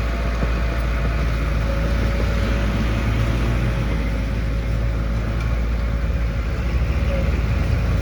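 Heavy construction machine's engine running steadily: an even low rumble with a thin steady whine above it.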